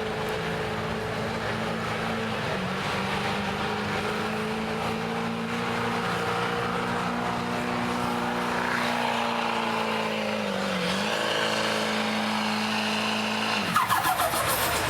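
Diesel pickup engine held at steady high revs under load, as in a truck pull dragging the sled. It sags briefly about eleven seconds in, then drops off sharply near the end.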